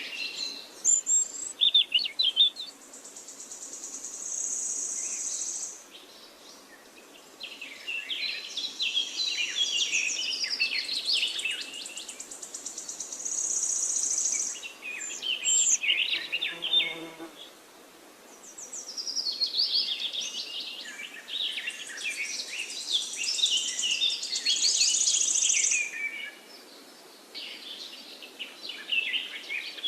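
Birds singing in quick, overlapping chirping phrases that come in waves, with a high buzzing trill that starts and stops every several seconds, and a brief lower call about halfway through.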